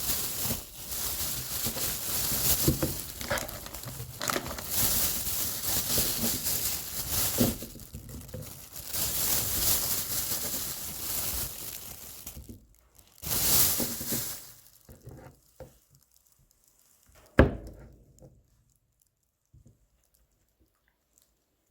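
Dry, papery crinkling and tearing of whole garlic being handled and broken apart by hand, going on for about twelve seconds, then a brief burst and a single sharp knock, after which it goes quiet.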